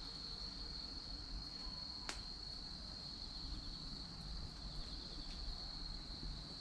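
A steady, high-pitched insect trill, like crickets, with a single sharp crackling pop from the burning chestnut and cherry firewood about two seconds in.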